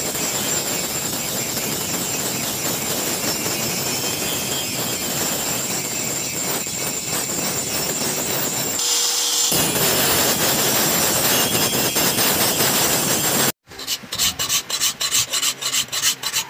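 Steady abrasive rasping as a tool's cutting edge, probably a pickaxe's, is worked back into shape. About 13 seconds in it breaks off sharply and gives way to quick, even strokes of hand filing at about four a second, sharpening the edge.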